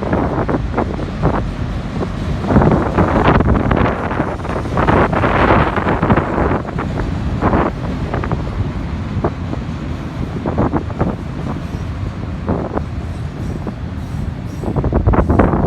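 Freight train of autorack cars rolling past on the rails, a steady rumble with uneven clatter, with wind buffeting the microphone.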